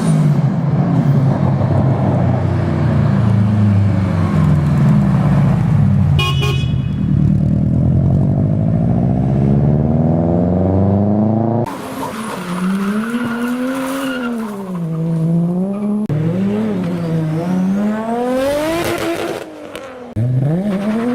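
Car engines revving again and again, pitch sweeping up and falling back, with abrupt changes to a different engine about 12 and 16 seconds in. A short high toot about six seconds in.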